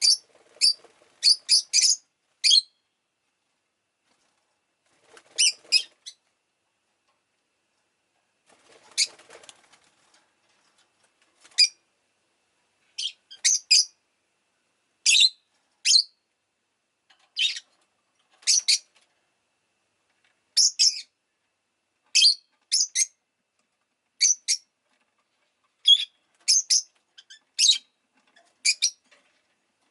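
Rosy-faced lovebird giving short, sharp, high-pitched chirps, singly and in quick pairs about once a second, with a couple of pauses of a few seconds.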